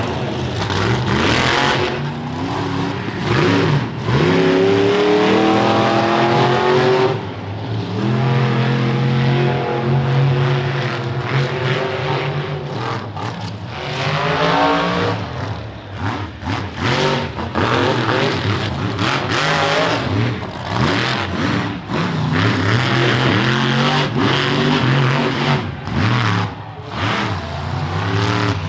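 Monster truck engine running hard, revving up in pitch several times with stretches of steady high-rpm running between the revs.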